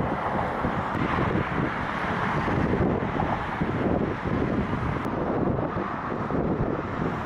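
Wind rushing and buffeting over the microphone of a camera on a moving bicycle.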